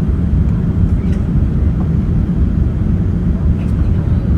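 Steady low rumble of a Boeing 787 airliner's cabin in flight, from airflow and the engines, during the descent toward landing.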